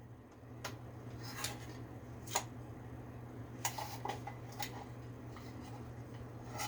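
Scattered light metallic clicks and clinks of small metal parts and hand tools being handled, a few single taps spread out over a few seconds, over a steady low hum.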